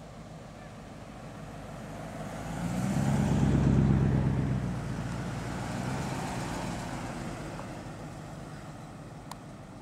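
Triumph Stag's 3.0-litre V8 passing close by, its engine note swelling to a peak about four seconds in and then fading. A second car passes more quietly a couple of seconds later, and there is one short click near the end.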